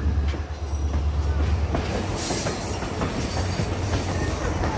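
Excursion passenger train rolling along, heard from aboard: a steady low rumble with clicks of the wheels over the rails, and a high wheel squeal coming in about two seconds in.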